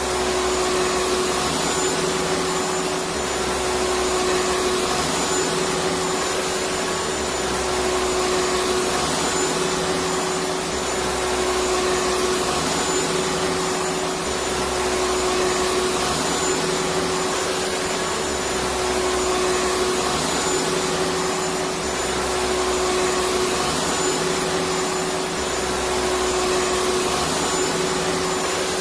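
Electric vacuum cleaner running steadily: a constant whoosh of air with a steady motor hum and a thin high whine, over a faint low pulsing that repeats every few seconds.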